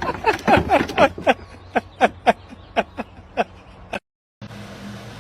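A rapid series of short calls from a small animal, each falling in pitch, about three a second, stopping shortly before a cut about four seconds in.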